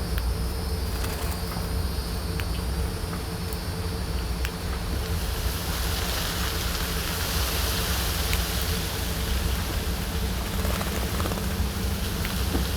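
Outdoor ambience: a steady insect buzz, louder from about five seconds in, over a constant low rumble.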